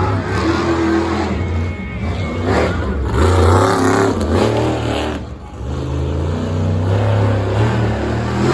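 Monster truck engine revving hard, rising and falling in pitch during a freestyle run, with a brief let-off about five seconds in before it opens up again.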